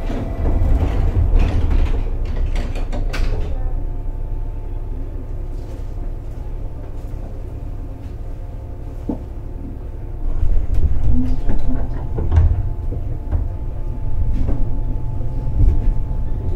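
Inside a JR Kyushu 415 series electric multiple unit: the sliding doors close with a quick run of knocks and thuds in the first few seconds, then a steady hum. About ten seconds in, a louder low rumble builds as the train starts to pull away.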